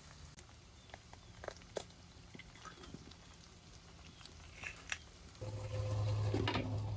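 Light clicks and taps of camp cookware being handled over a soft hiss. About five seconds in, a steady low hum with a hiss starts up and becomes the loudest sound.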